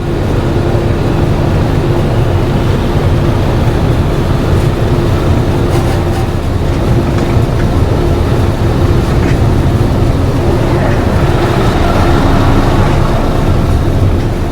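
Class 37 diesel locomotive D6700's English Electric V12 diesel engine running steadily and loudly, with a deep low rumble and a steady droning tone.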